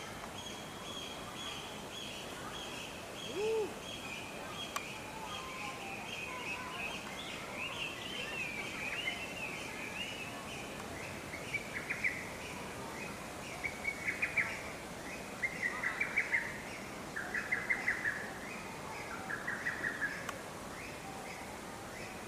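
Bird song: a long run of high chirps, then from about twelve seconds in, louder bursts of quick chattering trills repeated every second or two. A short, lower call stands out about three and a half seconds in.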